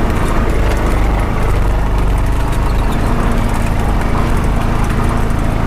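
Honda Pioneer 520 side-by-side's single-cylinder engine running steadily.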